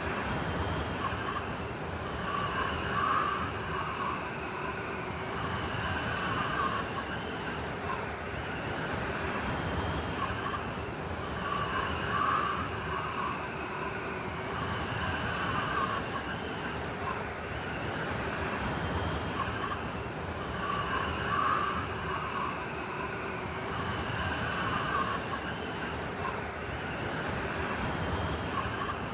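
Blizzard wind blowing steadily, rising and falling in gusts, with high whistling tones that come and go.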